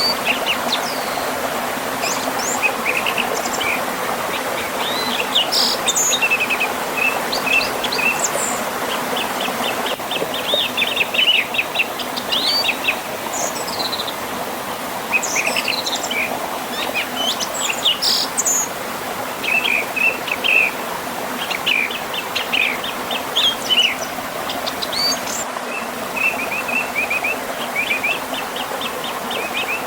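Several songbirds chirping and trilling in quick, overlapping phrases over the steady rush of a gently flowing river and small waterfall.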